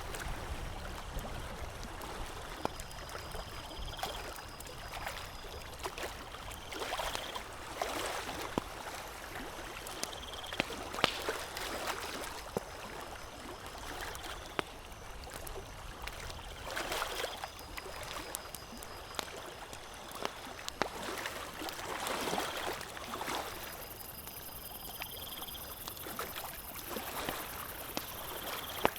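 Campfire crackling, with scattered sharp pops over a soft, surging rush that sounds like moving water.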